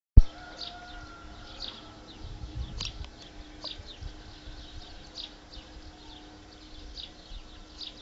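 Wild birds singing, with short high notes sweeping downward and repeating about once a second, and a sharp click right at the start.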